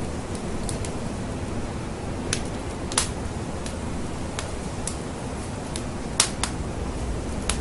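Wood fire crackling in a fireplace: a steady low rush with scattered sharp pops, the loudest about three seconds in and another just after six seconds.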